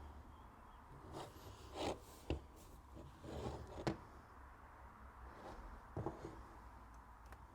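Faint handling noises of a small microphone capsule being seated in its mount: light rubbing and a few small sharp clicks as the parts are worked by hand and squared up.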